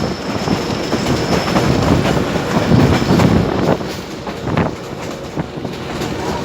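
Train running along the track: a steady loud rattle and rumble with many irregular clanks from the wheels and cars.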